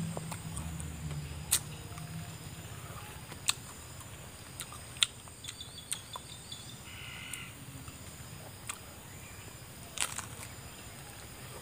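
Close-up mouth sounds of eating raw green banana dipped in rujak sauce: scattered sharp smacks and crunches of chewing, the loudest about ten seconds in as a new bite is taken. A bird calls briefly midway.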